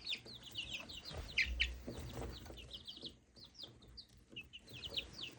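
A brood of chicks peeping nonstop, many short high peeps sliding downward and overlapping. A soft low thump comes about a second and a half in.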